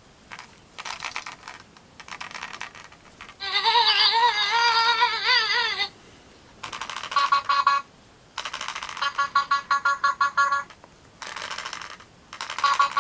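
Electronic sound effects from a Kachooz Kachatz Rock Star Alien toy's small speaker: a series of short clips separated by brief pauses, including a warbling, wavering tone lasting about two and a half seconds and bursts of rapid bleeps.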